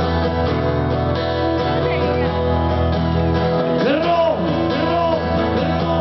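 Rock band playing a song's instrumental intro, led by guitar over sustained chords, with a melody line sliding up and down in pitch from about four seconds in.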